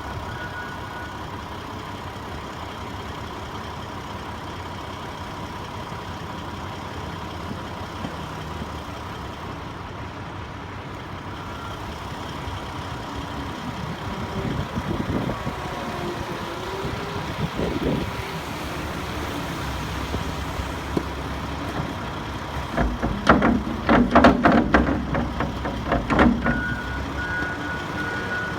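Heavy truck engine running, with a reversing beeper sounding briefly near the start and again near the end. A cluster of louder clanks and engine revs comes about three-quarters of the way through, as when the truck clears snow.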